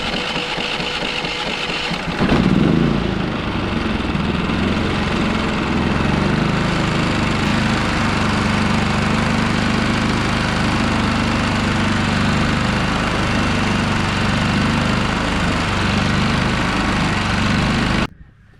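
Westinghouse iGen4500DF dual-fuel inverter generator being cranked, catching about two seconds in and then running steadily on its own, the sign that the bad-fuel starting problem is cleared. It stops abruptly near the end.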